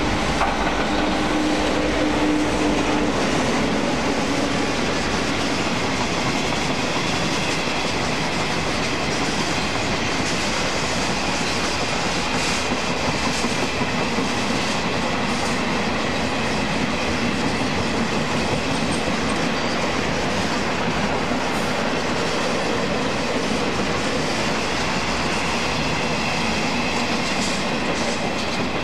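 Freight train of box and tank wagons rolling steadily past on the rails, behind a JNR EF65 electric locomotive that goes by at the start with a brief steady hum.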